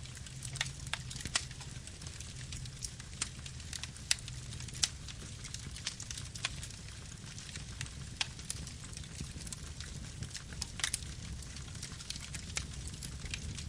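Campfire burning with a low, steady rumble and frequent sharp crackles and pops at irregular intervals.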